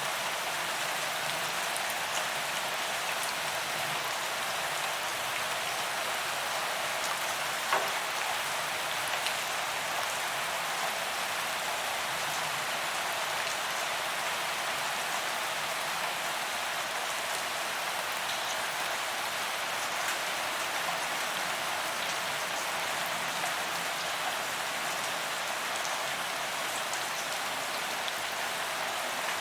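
Steady rain falling on pavement: an even hiss of drops hitting the ground, dotted with small ticks, and one sharper drop tick about eight seconds in.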